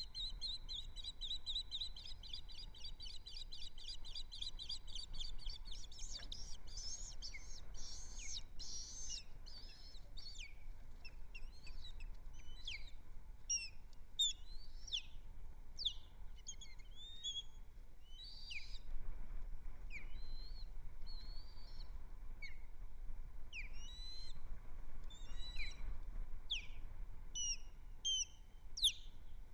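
Ospreys calling with high, whistled chirps. For the first several seconds it is a fast run of rapid notes; after that come separate sharp, downslurred chirps, roughly one or two a second.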